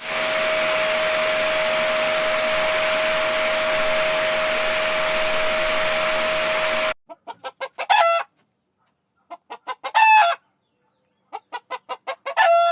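An electric appliance motor blowing air runs steadily with a constant whine and cuts off suddenly about seven seconds in. It is followed by a chicken cackling three times, each a run of quick clucks ending in a drawn-out falling call.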